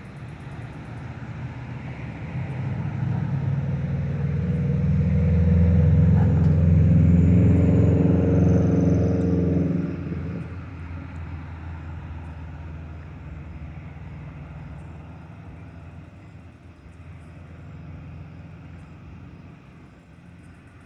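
Metra commuter train passing, its diesel locomotive engine running under power. The sound grows louder to a peak about six to nine seconds in, drops off sharply near ten seconds and then fades as the train moves away.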